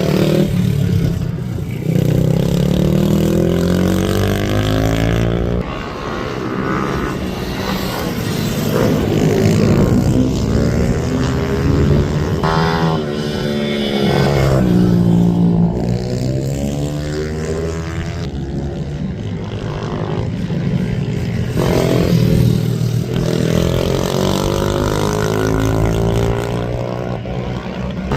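Several racing minibike engines revving hard as they run past, their pitch rising and falling again and again as the bikes change gear and pass one another, several engines overlapping.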